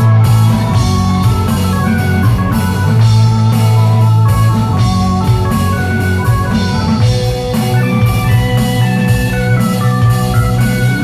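A live rock band playing an instrumental passage with organ, guitar and drum kit over a steady bass line.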